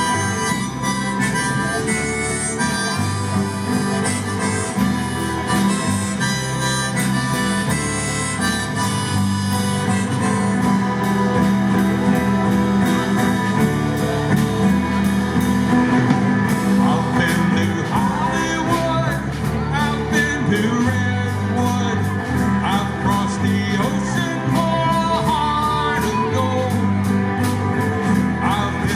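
Live band playing an instrumental passage led by harmonica over guitar, bass and a steady drum beat.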